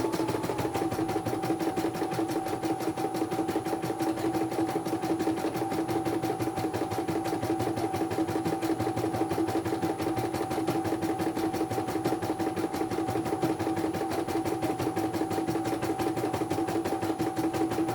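Computerized embroidery machine stitching: rapid, even needle strokes over a steady motor hum.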